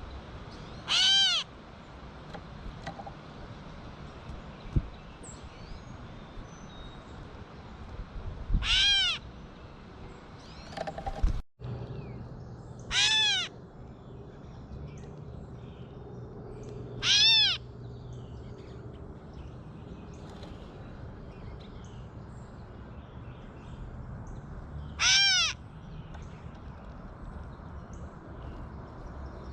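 Gray catbird giving its cat-like mew call five times, each a short slurred note rising then falling in pitch, spaced a few seconds apart over a steady background hiss.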